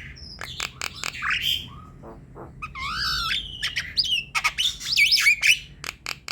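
Javan myna singing its chattering song: sharp clicks mixed with short whistled notes, and about three seconds in a loud whistled phrase that dips and rises. Near the end comes a quick run of clicks and whistles.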